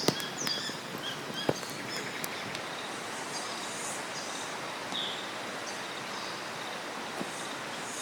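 Steady rain hiss with a few sharp ticks and pops, and short high bird chirps, mostly in the first two seconds.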